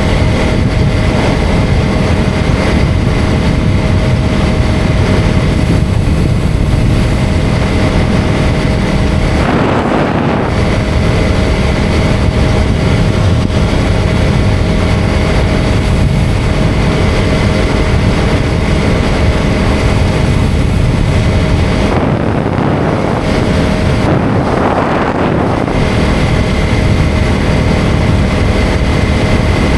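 KTM Duke 250 single-cylinder motorcycle engine running at steady road speed, under the heavy rush of wind on the microphone. The steady engine note drops out briefly about ten seconds in and again a little past twenty seconds.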